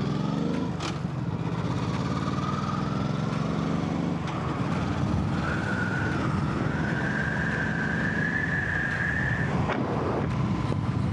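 Yamaha MT-07's parallel-twin engine running, heard from the rider's seat. A thin, high whine rises slowly over it from about a second in and stops abruptly near the end.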